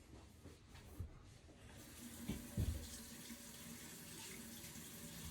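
Water running steadily from a tap, starting about two seconds in, with a couple of dull knocks just after it starts.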